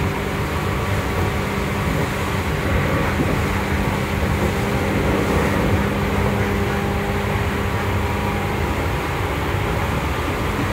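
Running sound inside a Seibu 2000 series electric train car, a motor car, travelling steadily between stations: a steady hum with rolling wheel-on-rail noise.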